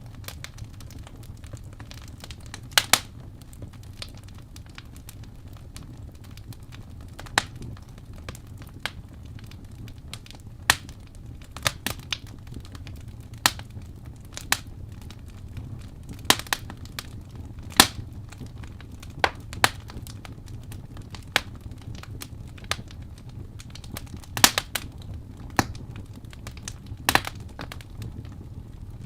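Wood fire burning in a fireplace: a steady low rumble of the flames with sharp, irregular crackles and pops from the burning logs, some of them loud.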